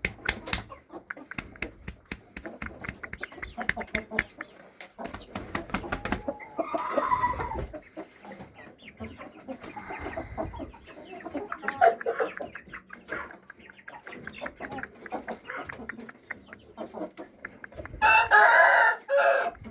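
Shamo gamecocks calling and crowing: several clucks and shorter calls through the middle, and a loud crow near the end. Many small clicks and taps run underneath.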